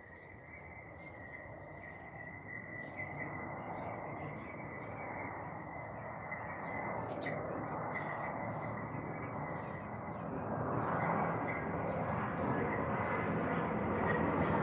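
Garden birds chirping, in short high calls and brief whistled notes, over a steady rushing noise. In the second half the rushing grows steadily louder as an airplane approaches.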